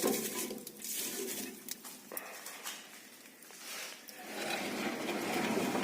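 Birch logs crackling and burning in an open fireplace firebox, with irregular sharp pops over a steady fire noise that swells in the last couple of seconds.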